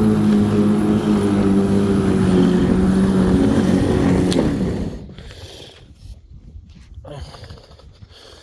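Black & Decker 42 cm 1800 W electric lawnmower's motor running with a steady hum. Its pitch sags and it winds down and stops about four and a half seconds in, with a sharp click just before. The mower is choking on wet grass clogging the deck.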